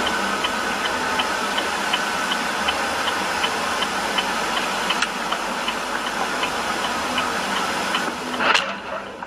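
Steady road and engine noise inside a moving car, with a car's indicator ticking quickly and evenly, about three ticks a second. A sudden, louder noise breaks in near the end.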